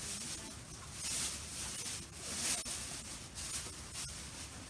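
Wood campfire burning: a hissing rush that swells and fades, with a few sharp crackles.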